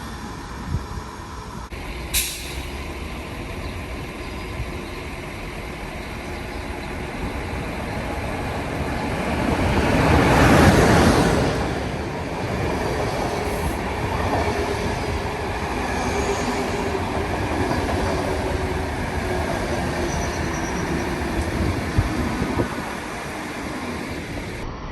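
Electric-locomotive-hauled intercity passenger train passing through a station. A sharp clank comes about two seconds in, the rumble builds to its loudest about halfway through, then it carries on steadily with faint squealing from the wheels.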